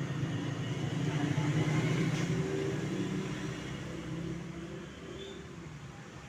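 A steady low hum under a faint even hiss, fading slightly near the end.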